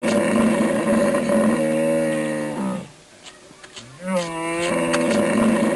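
Hippopotamus vocalising: two long, drawn-out calls with about a second's pause between them, the first bending down in pitch at its end and the second sliding in at its start.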